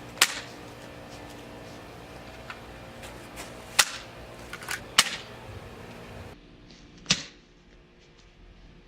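Low-powered BB gun shots at a watermelon: four sharp snaps a second or so apart, with fainter clicks between them.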